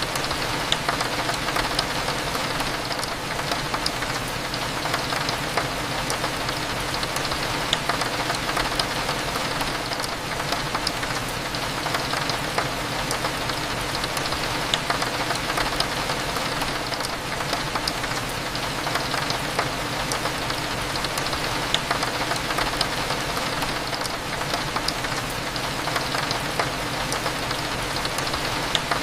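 Steady rain falling on a window, with many small drop ticks, over a low steady hum.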